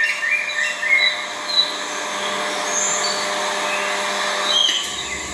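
A small songbird gives a series of short, high chirps over a steady background hiss. A low rumble comes in near the end.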